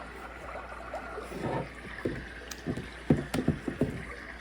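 Hatch Rest baby sound machines playing a water sound: a steady hiss with irregular louder splashes between about one and a half and four seconds in.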